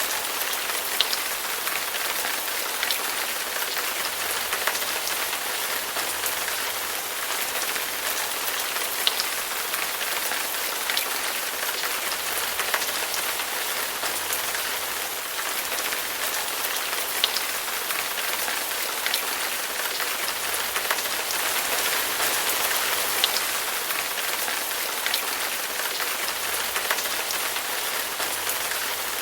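Steady rain falling and splashing, a constant hiss with scattered sharper drop hits close by.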